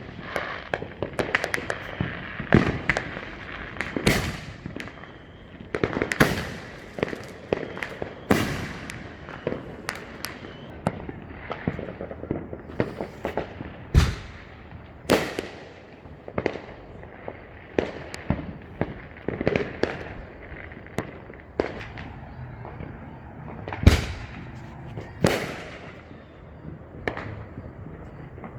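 Consumer fireworks going off all around: a continuous, dense barrage of bangs and crackles, several reports a second, with occasional heavier booms echoing off surrounding houses.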